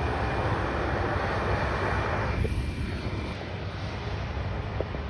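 Airliner jet engine noise, a broad steady rush that thins out a little over two seconds in, over a continuous low rumble.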